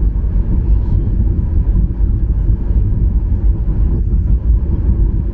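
Steady low rumble of a Ryanair Boeing 737-800's engines and airflow heard inside the passenger cabin.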